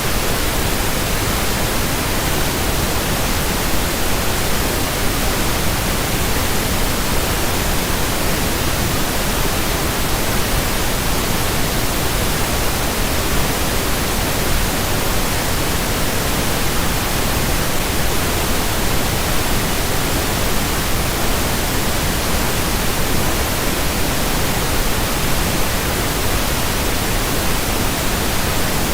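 Steady pink noise: an even, unchanging hiss spread across all pitches, generated for sleep masking.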